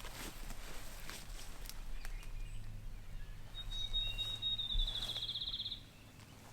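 A small songbird singing: one thin high whistled note that runs into a fast, even trill, lasting about two seconds in the second half, with faint scattered rustles and ticks earlier.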